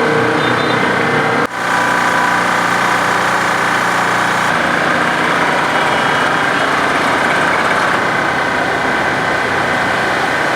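Motor vehicle engines running steadily in street traffic, with a brief break about one and a half seconds in where the sound cuts and resumes.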